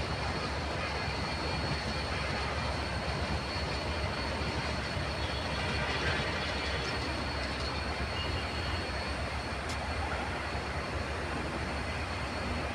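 A train running on the railway tracks: a steady noise with a thin, steady high tone above it.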